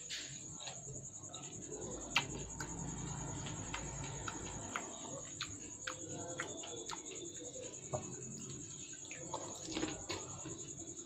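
Close-miked eating of phuchka: crisp puri shells crunching and wet chewing and mouth clicks in irregular short bursts, over a steady faint high-pitched hiss.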